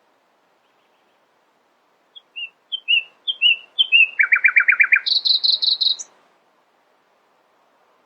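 A songbird sings one phrase: about six short, clear down-slurred whistles starting about two seconds in, then a fast trill, then a higher fast trill that stops abruptly about two seconds later.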